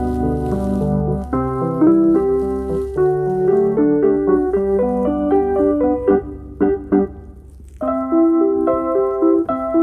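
Keyboard music: a piano-toned melody over held chords, with a short pause about seven seconds in before it resumes.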